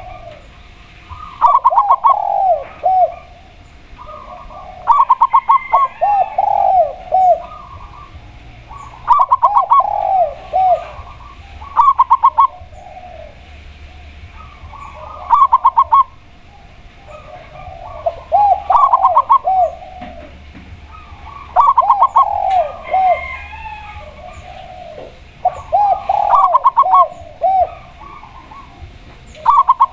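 Spotted dove and zebra dove cooing in turn. Each phrase combines quick clipped notes with rounded coos, and a new phrase comes every three to four seconds.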